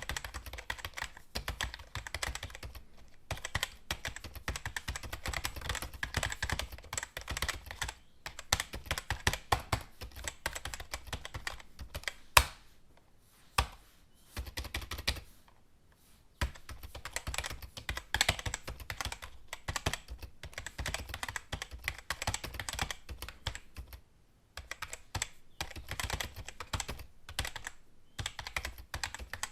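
Typing on a computer keyboard: quick runs of key clicks with short pauses between them, one sharp, loud keystroke about 12 s in, followed by a lull of a few seconds with only scattered taps.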